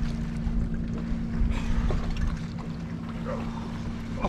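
Steady low hum of a boat's motor running at an unchanging pitch, with a few faint water sounds on top.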